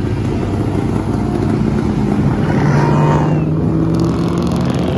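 A car engine running hard and revving, getting louder to a peak about three seconds in, then easing off a little.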